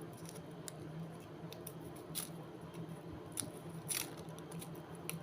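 Scattered light clicks and scrapes of hands handling sambal ingredients such as garlic and shallots, with a faint steady low hum underneath.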